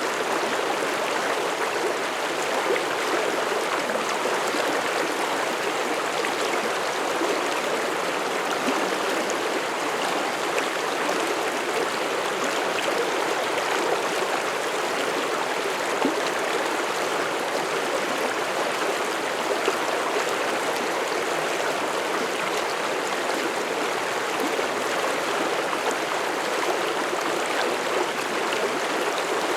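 Mountain stream flowing over rocks: a steady rushing and babbling of water with small splashes.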